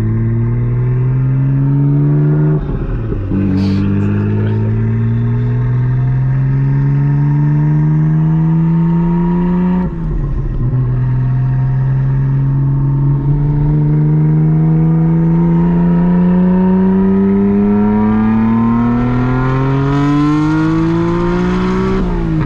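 Nissan Skyline R32 GT-R's twin-turbo RB26 straight-six on a loud Group A-style exhaust, heard from inside the car while accelerating hard. The engine note climbs steadily and drops at upshifts about two and a half seconds in and about ten seconds in, then climbs again and drops near the end.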